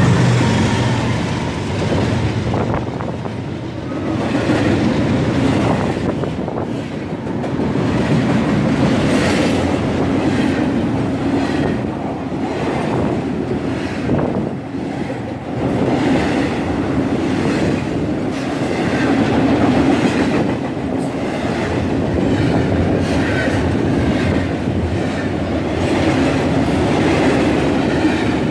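BNSF intermodal freight train's cars rolling past, a steady rumble of steel wheels with repeated clacking as the wheels cross rail joints.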